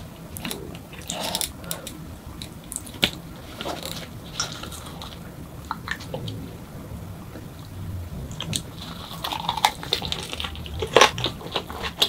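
Close-up chewing and wet mouth sounds of someone eating a perilla-leaf wrap, with scattered crisp clicks and smacks. A sharper click comes about three seconds in, and a denser run of louder bites and smacks comes near the end as the wrap goes into her mouth.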